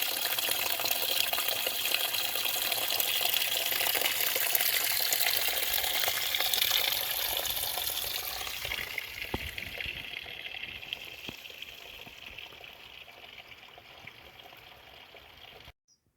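Rushing water, a steady hiss that fades away over the second half and cuts off abruptly near the end.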